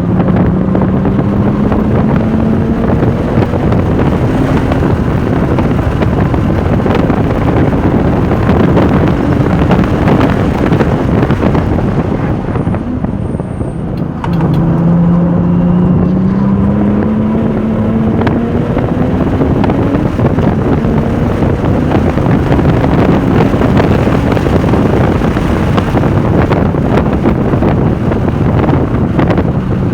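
Porsche 996 Turbo's twin-turbo flat-six under load at track speed, its pitch climbing steadily, mixed with heavy wind rush. About twelve seconds in the engine note drops away briefly, then it climbs again under acceleration.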